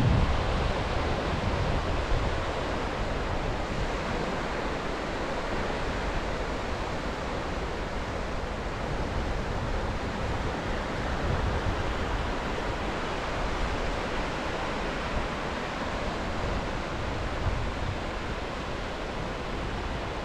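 Sea surf washing steadily onto the shore, with wind buffeting the microphone now and then.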